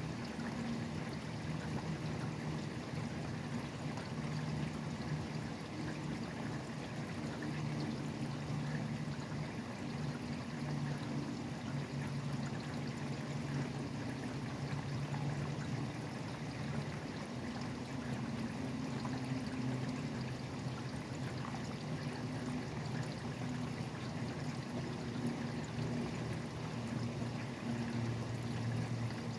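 Steady rain falling, a constant even hiss, over a low drone of highway traffic that swells and fades slightly.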